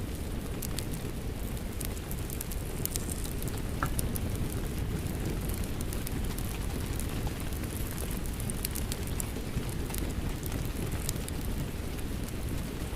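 Rain falling steadily under a crackling wood fire: a continuous even hiss and low rumble, with sharp pops and crackles scattered throughout.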